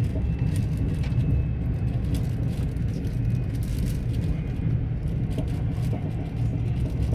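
Passenger train running at speed, a steady low rumble from inside the carriage with faint rattling ticks.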